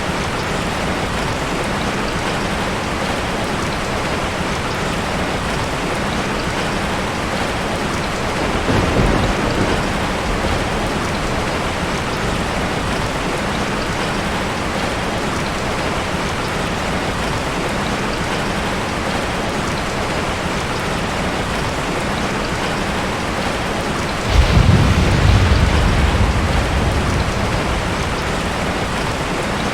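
Heavy rain drumming steadily on a tin roof. A short low roll of thunder comes about nine seconds in, and a louder clap of thunder breaks suddenly about three-quarters of the way through, then rumbles away over several seconds.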